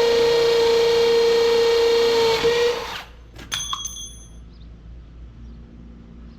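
Power drill running with a steady high whine that cuts off about three seconds in, followed by a short metallic clink that rings briefly.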